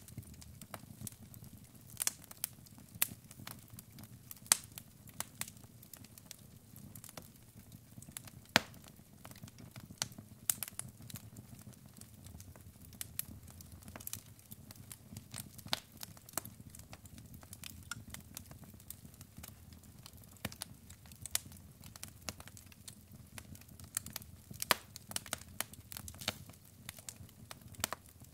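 Wood fire burning in a fireplace: logs crackling and popping at irregular intervals, with a soft low rumble of the flames underneath.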